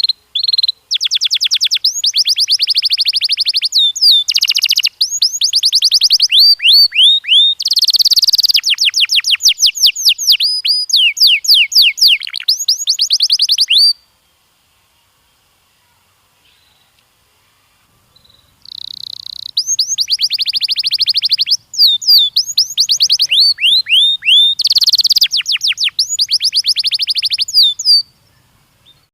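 Canary singing: rapid trills of repeated chirps, changing from one trill to the next, in two long bouts with a pause of about four seconds between them.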